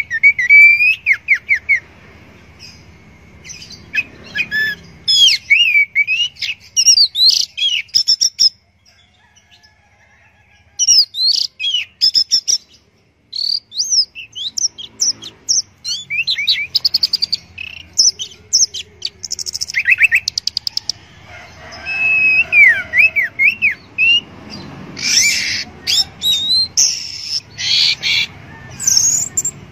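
Orange-headed thrush singing a fast, varied song of quick whistled phrases and trills, pausing briefly twice.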